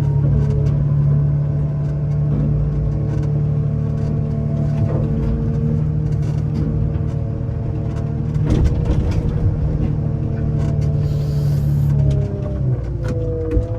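Truck engine running steadily while driving, a constant low hum. Near the end the steady tone drops away and gliding tones come in.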